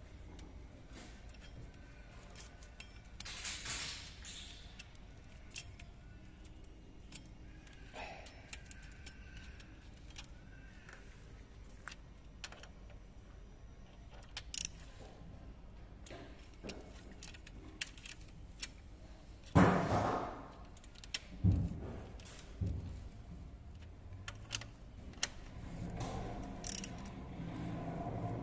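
Scattered metallic clinks and rattles of hand tools and metal engine parts being handled, with a few louder knocks about twenty seconds in.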